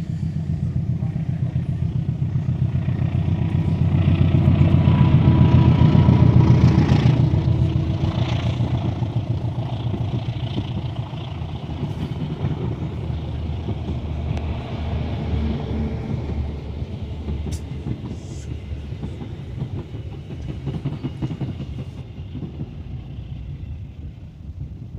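KAI CC203 diesel-electric locomotive passing close, its engine loudest about six seconds in, followed by passenger carriages rolling by with a rapid, even rhythm of wheels on the rails, fading near the end.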